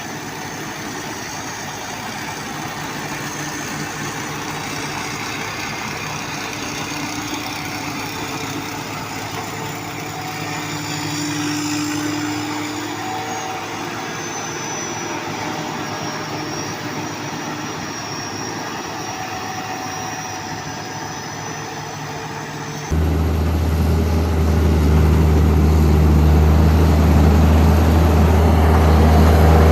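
Tractor engine running steadily. About two-thirds of the way through it cuts abruptly to a louder, deeper engine drone.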